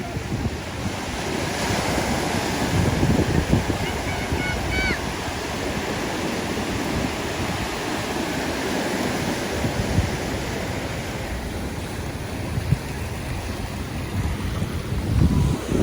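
Surf breaking on a beach, with wind buffeting the microphone. A few short, faint, high chirps come about four seconds in.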